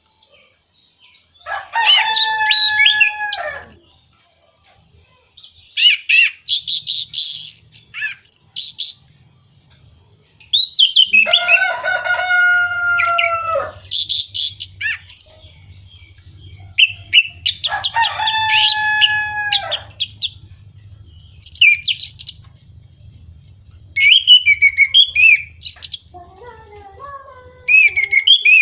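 Orange-headed thrush song used as a lure recording: loud, varied phrases separated by short pauses, three of them long, drawn-out notes with overtones lasting two to three seconds each, the others quick chirpy bursts.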